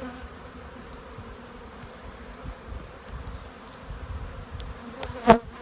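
Honey bees buzzing steadily around an opened hive, with one sharp knock near the end as a frame or hive tool strikes the wooden box.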